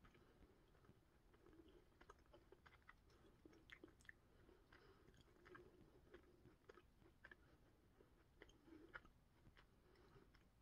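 Faint chewing of a jelly bean: soft, irregular wet mouth clicks and smacks.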